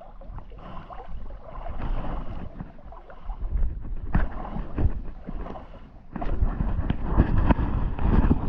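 Wind buffeting the microphone over water splashing against the boat, with scattered knocks; it gets much louder about six seconds in.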